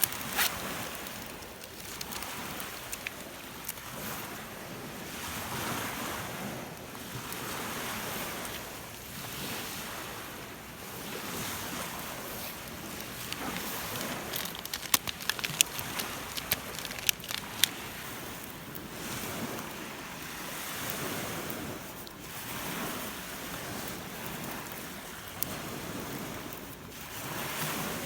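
Rough lake waves breaking and washing on the shore of Lake Biwa in strong wind, swelling and ebbing every few seconds, with wind buffeting the microphone. A run of sharp clicks sounds about halfway through.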